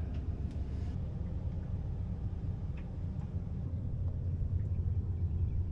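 Low steady rumble of a boat's outboard motor idling, growing a little stronger near the end.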